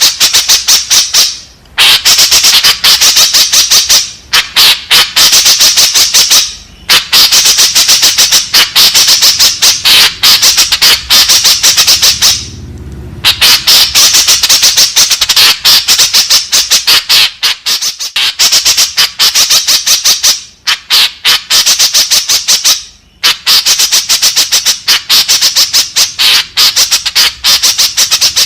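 White-breasted woodswallow (kekep babi) calling: loud, rapid chattering runs of short repeated notes, each run lasting a few seconds and broken by brief pauses.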